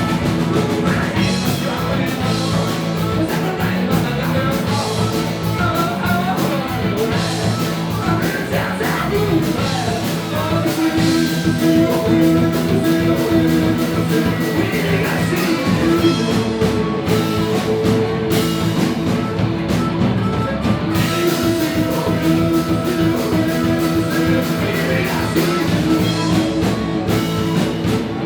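Rock band playing live: electric guitars, bass and drum kit with a singing voice, a steady rock-and-roll beat.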